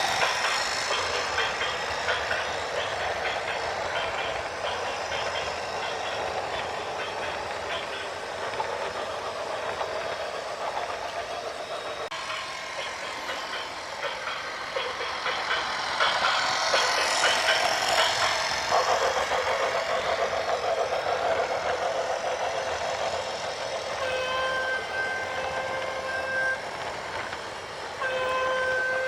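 Heavy vehicle noise, rumbling with fast clattering, then two long horn blasts near the end, each a steady chord of several notes.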